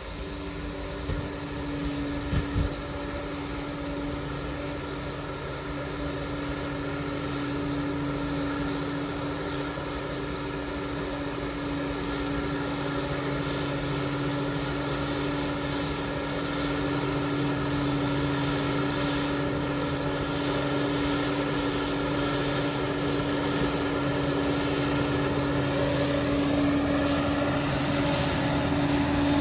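Liebherr 746 crawler dozer's diesel engine running steadily with a constant hum, slowly growing louder, with a few short knocks about two seconds in.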